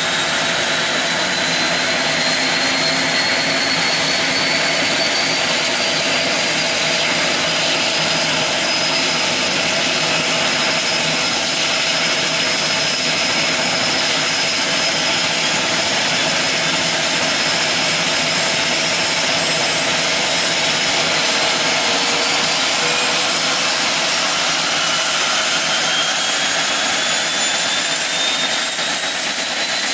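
Air taxi seaplane's turboprop engines running loud and steady, with several high whines that slowly rise in pitch as power builds for take-off.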